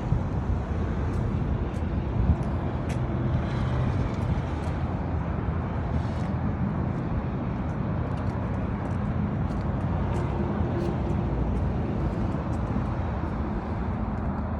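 Motorcycle running steadily on the move, a continuous low rumble throughout.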